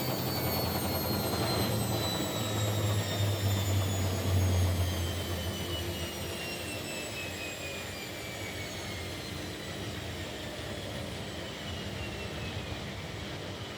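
Front-loading Kunft washing machine slowing down after a spin: the motor whine falls steadily in pitch, and the low hum drops away about five seconds in.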